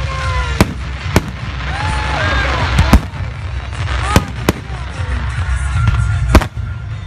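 Aerial firework shells bursting overhead: about six sharp bangs at irregular spacing, the loudest about three seconds in and near the end.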